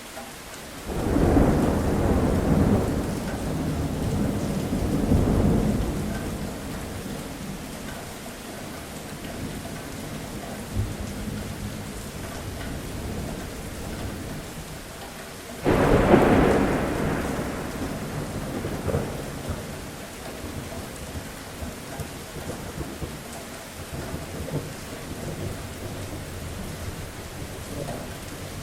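Steady rain falling, with two rolls of thunder: one building about a second in and rumbling for several seconds, and a sharper clap about halfway through that trails off into a long rumble.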